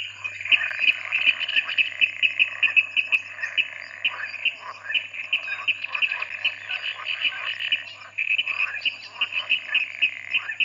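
Hornbill calls: a dense run of rapid, repeated chattering notes, over a low steady hum.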